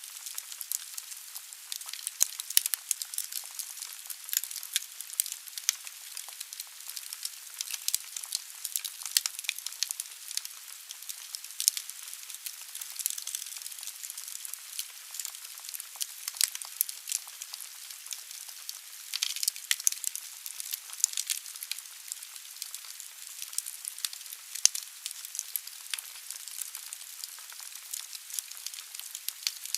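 Wood fire burning in a fireplace: logs crackling, with frequent sharp pops over a steady hiss.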